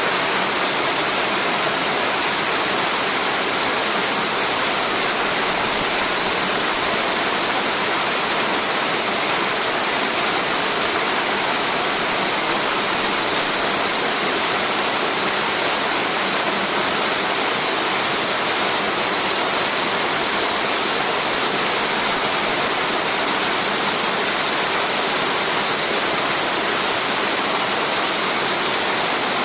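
Steady, unbroken rush of water falling down a multi-tiered cascade waterfall.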